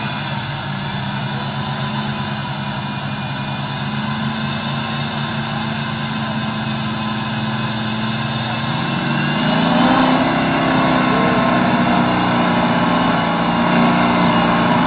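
Motor engine running steadily, its pitch and loudness rising about nine seconds in as it speeds up.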